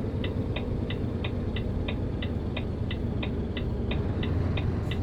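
Truck turn-signal indicator ticking steadily, about three clicks a second, signalling a right turn, over the steady low drone of the truck's engine.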